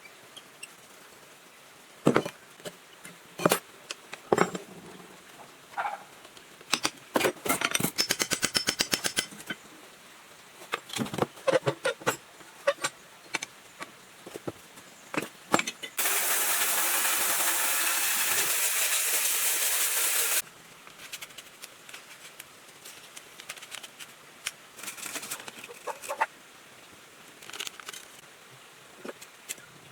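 Hand tools and metal pump parts being handled during a repair: scattered clicks and knocks, a fast even rattle for a couple of seconds, and a steady hiss of about four seconds that starts and stops abruptly a little past the middle.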